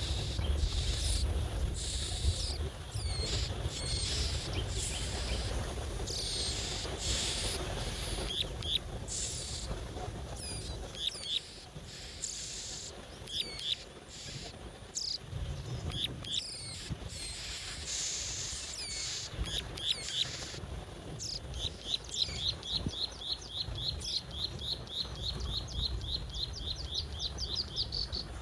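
Small birds chirping with many short, high, down-slurred calls; about three quarters of the way through, a fast trill of evenly repeated notes, about four a second, starts up. A low rumble runs underneath, heaviest in the first third.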